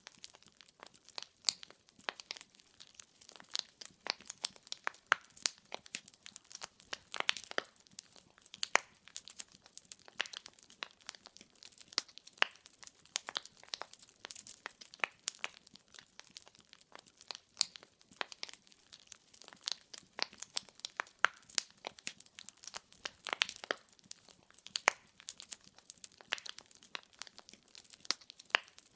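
Wood fire in a fireplace crackling, with many sharp pops and snaps of burning logs over a faint hiss.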